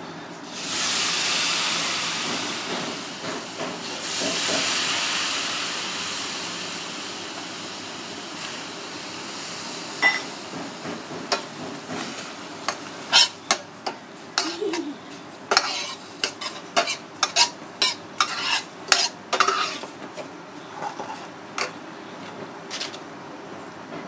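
Food sizzling in a hot steel pot, with a loud surge of hissing at the start and another about four seconds in, each dying away over a few seconds. Then a metal slotted spoon stirs and scrapes, clinking sharply against the pot many times over about ten seconds.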